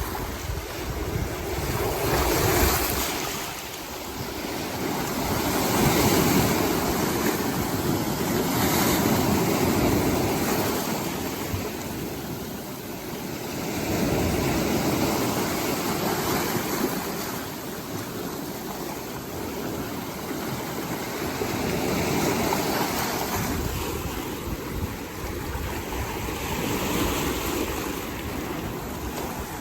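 Rough, storm-churned sea: waves surging and breaking, swelling and fading every few seconds.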